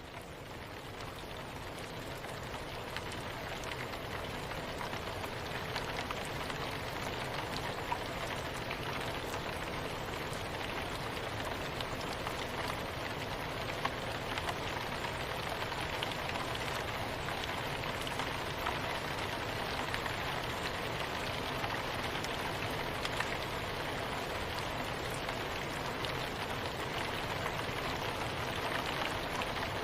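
Steady soft rain: an even hiss with scattered faint drop ticks, swelling up over the first few seconds.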